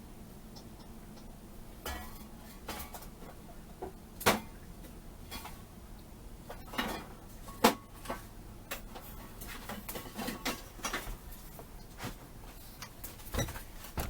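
Small metal carburetor parts and tools being handled on a workbench: scattered light clicks, taps and knocks at uneven intervals, a couple of them sharper than the rest.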